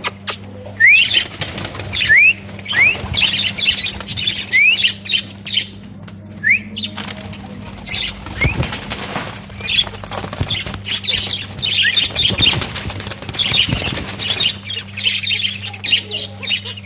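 Caged budgerigars chattering and chirping, with repeated short rising calls and wings flapping, over a steady low hum.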